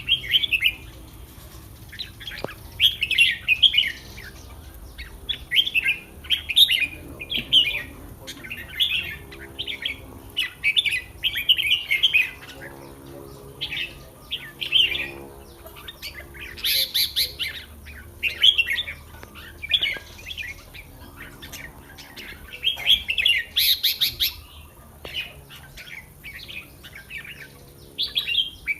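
Red-whiskered bulbuls singing: short, bright warbled phrases repeated every second or two, with brief pauses between them.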